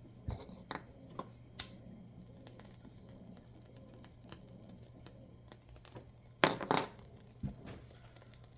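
Scattered clicks and knocks of small objects being handled, at irregular times with no steady rhythm, the loudest a short cluster about six and a half seconds in, over a steady low hum.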